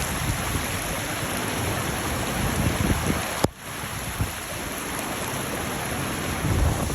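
Heavy thunderstorm rain falling as a steady hiss, with a brief dropout and click about three and a half seconds in.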